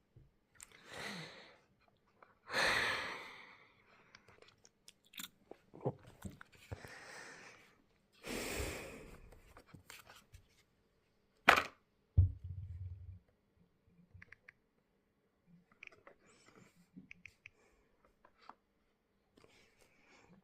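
Packaging being handled during an unboxing: several bouts of rustling and crinkling, a sharp click about eleven and a half seconds in, a short low thud-like rumble just after, then a few small ticks.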